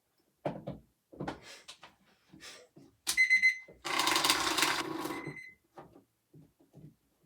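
Electronic alarm clock going off briefly: a quick run of high-pitched beeps, then a louder, harsher electronic blare for about a second and a half, ending on a short beep. Knocks and clicks of the device being handled come before it.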